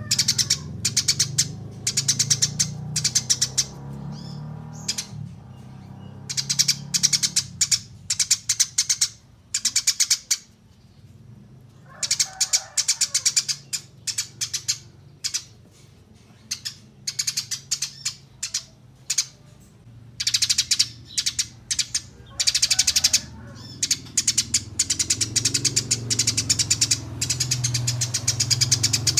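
Eurasian tree sparrows chirping in rapid runs of short, high chirps, broken by a few brief pauses, over a steady low hum.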